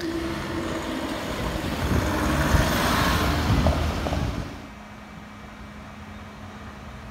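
A train passes close by at speed: loud rushing wheel and rail noise with a steady hum, building to a peak. It cuts off abruptly about four and a half seconds in, leaving a quieter steady background with a low hum.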